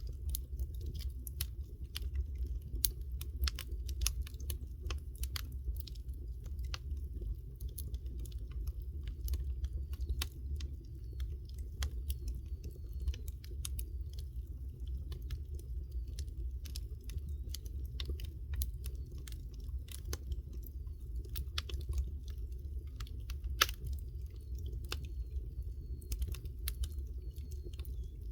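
Wood fire crackling, with irregular sharp snaps over a low steady rumble.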